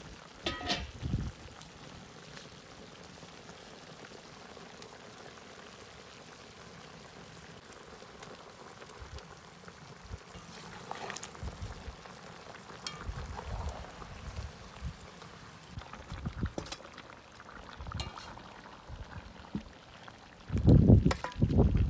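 Ribs and potatoes in water stewing in a kazan over a campfire: a steady low bubbling hiss, with a few dull knocks and clicks, the loudest near the end.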